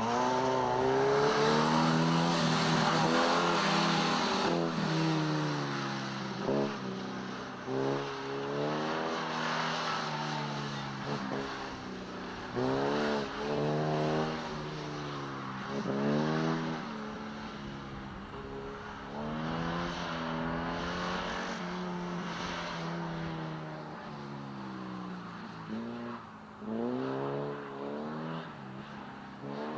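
Sports car engines revving hard and falling back again and again as cars accelerate and lift between the cones of an autocross course. A car passes close in the first four seconds, loudest there, with tyre noise. Most of the rest is the 1969 Saab Sonett's V4 working through the course.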